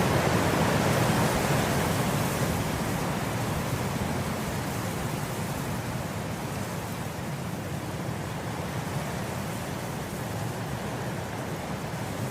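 Wind blowing through grass: a steady rushing that swells in a gust at the start and then eases off a little.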